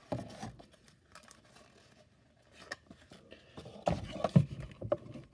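Cardboard being handled and bent, with the tabs of a cardboard playset scraping and clicking as they are worked into slots. The handling comes in short bursts, busiest near the end.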